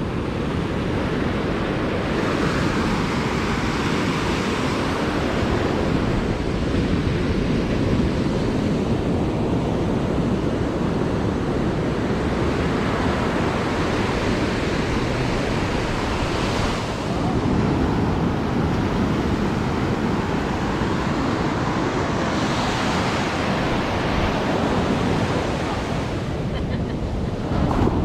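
Ocean surf washing on a beach, a steady roar of waves that swells as each one breaks every several seconds, with wind rumbling on the microphone.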